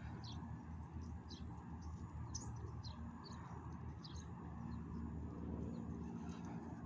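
Bird giving short, high chirps, roughly one a second, over a steady low hum.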